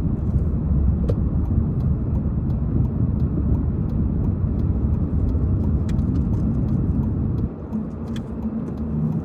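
Car cabin noise while driving slowly on a snow-covered residential street: a steady low road and engine rumble with faint, regular ticking about two to three times a second. About seven and a half seconds in the rumble drops away as the car slows.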